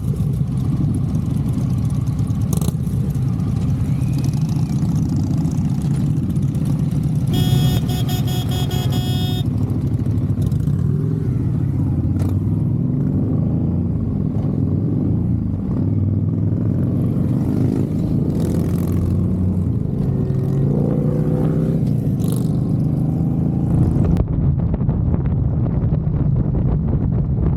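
Motorcycle engine running under way, a steady low rumble, with the revs rising and falling around twenty seconds in. A high steady tone with many overtones sounds for about two seconds, some seven seconds in.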